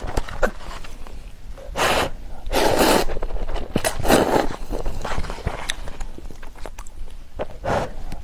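Spicy instant noodles being slurped in several short, airy bursts, with wet chewing clicks between them.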